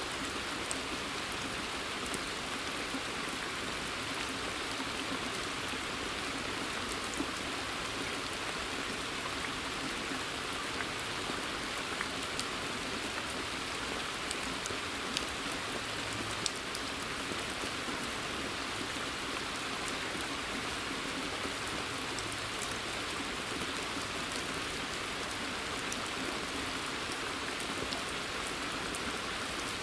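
Steady forest rain, an even hiss of falling drops with many separate drops ticking through it.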